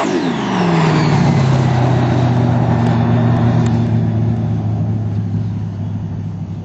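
Supercharged Camaro engine coming off high revs at the end of a burnout, its pitch dropping steeply in the first second. It then runs at low, steady revs as the car pulls away, slowly fading.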